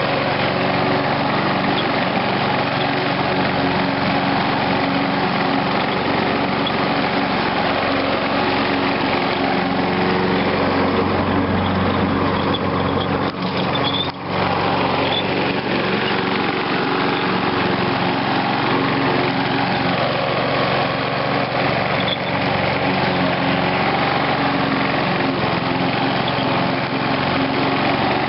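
Old 3 hp Briggs & Stratton engine on a Snapper Hi-Vac lawn mower running steadily, revived after sitting unused for about 15 years. It briefly dips twice about halfway through.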